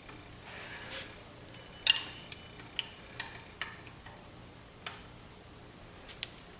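Sharp metal clinks of a wrench knocking against a nut and cylinder wall inside a small-block Chevy 350 block, about seven irregular clinks, the loudest and ringiest about two seconds in, with a soft scrape near the start.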